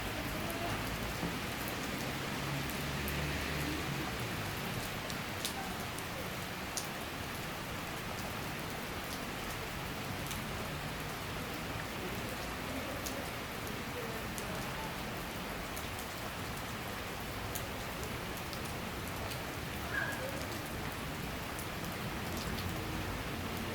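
Summer rain shower falling steadily on surfaces, with scattered sharper drops ticking through the hiss.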